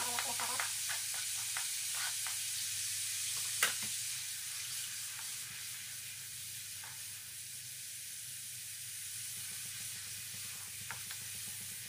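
Minced garlic sizzling in melted butter in a wok, stirred and scraped with a wooden spatula, while the garlic is browning lightly. A steady frying hiss with scattered small clicks and one sharp knock a little over three and a half seconds in.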